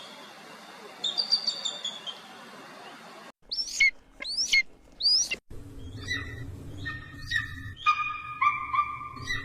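Eagle calls in three spliced recordings. First come a few high chirps over a hiss of background noise. Then come three short whistles that sweep up and down. Last comes a run of repeated high, clear calls with a low hum underneath.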